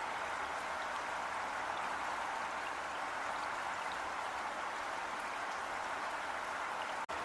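Heavy rain falling steadily in a dense, even hiss. The sound drops out for a split second near the end.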